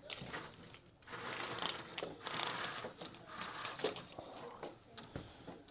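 Rustling, crinkling handling noise in bursts, with a few sharp clicks.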